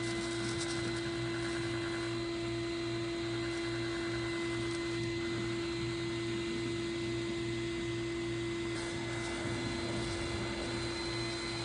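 A steady hum held at one pitch with overtones, over a constant hiss.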